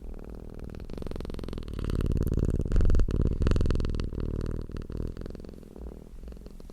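Domestic cat purring, a low rumbling hum that swells to its loudest two to three seconds in and then eases off.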